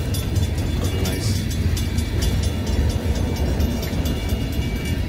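Freight cars rolling past at a grade crossing, the steady rumble and clatter of wheels on rail, while the crossing signals' old-style mechanical bells keep ringing with quick repeated strokes.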